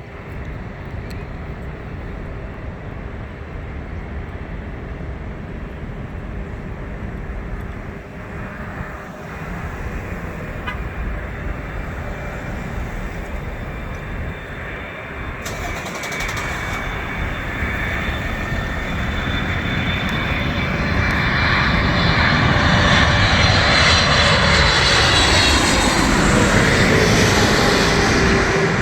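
An airliner's jet engines on landing approach, growing steadily louder into a loud rush with a high engine whine from about twenty seconds in; near the end the whine slides down in pitch as the plane passes.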